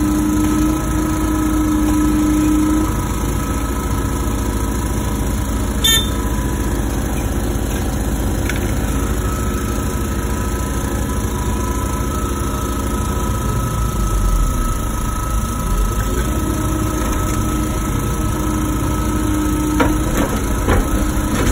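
Wacker Neuson ET145 excavator running and working, its engine and hydraulics giving a steady hum with a held whine. The pitch sags and bends for a couple of seconds around the middle as the machine takes load, and there is a sharp click about six seconds in and a few knocks near the end.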